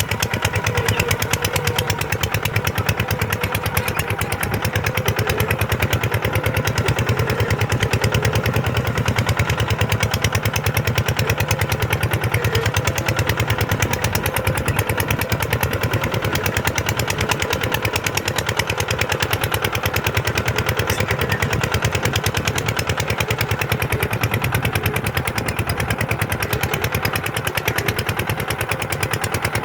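Kubota tractor's diesel engine running steadily at an even pace.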